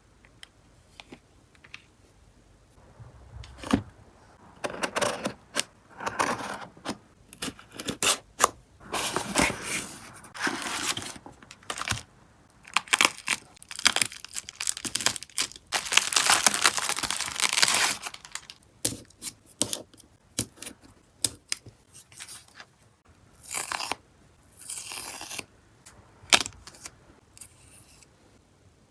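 Parcel packaging being torn open and handled, in irregular bursts of tearing and crinkling with small clicks and taps between them. The longest tear comes about two-thirds of the way in.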